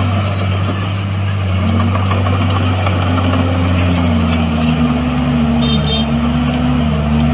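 Heavy earthmoving machine's diesel engine running steadily, its note dipping and rising slightly from about four seconds in.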